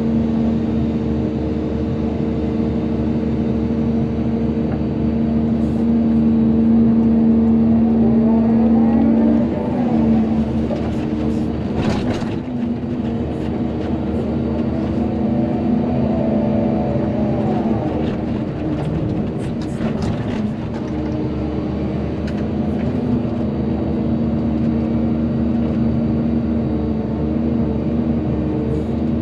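Volvo EC220DL excavator's diesel engine running steadily under work, with a whine that rises and falls twice. There is a sharp clank about twelve seconds in and a few lighter knocks around twenty seconds.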